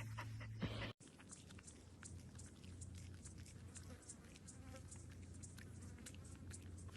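Near silence: faint room tone with a low steady hum and a few soft scattered ticks, after a brief faint sound that cuts off about a second in.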